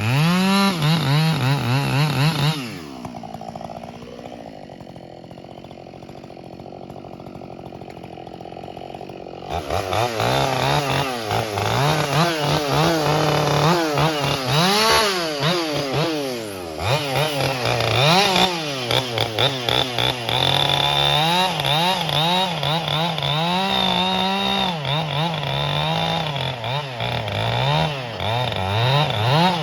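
Ported Husqvarna 572 XP two-stroke chainsaw running at high revs, its pitch rising and falling as it cuts wood. About two and a half seconds in it drops back to a quieter idle, then about ten seconds in it is revved back up and cuts again.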